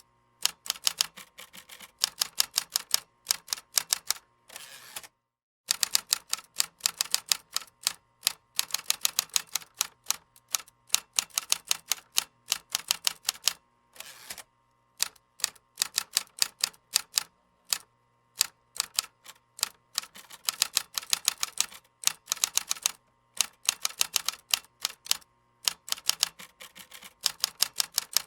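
Typing on a computer keyboard: quick runs of key clicks in bursts of a few seconds with short pauses between. The sound cuts out completely for about half a second around five seconds in.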